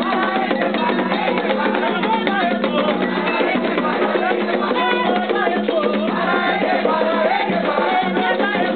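Candomblé ritual music: atabaque hand drums played in a steady, dense rhythm under voices singing a chant together.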